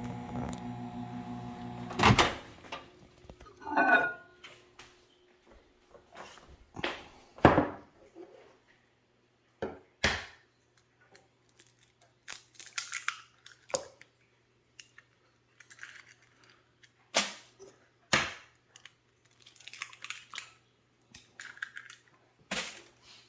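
Microwave oven running with a steady hum that stops about two seconds in with a loud click. Then come scattered knocks, taps and clatters of eggs being cracked against a bowl and dishes being handled.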